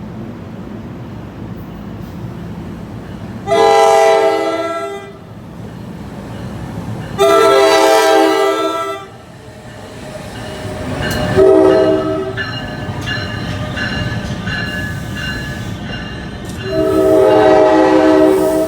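Train horn sounding the grade-crossing signal, long, long, short, long, as a train approaches, each blast a multi-tone chord. A rolling rumble of the train rises beneath the horn in the second half.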